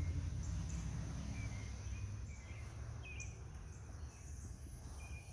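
Outdoor ambience: a steady low rumble with faint, short bird chirps and insects chirping.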